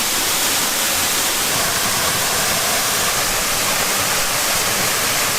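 Waterfall pouring close by, a loud, steady rushing of falling water.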